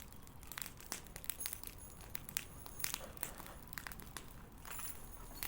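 Bonfire of burning garage rubbish crackling, with irregular sharp pops and snaps.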